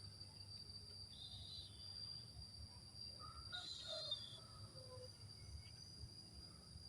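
Faint short chirps from caged bar-winged prinias (ciblek), once about a second in and again a little after three seconds, over a steady high-pitched tone.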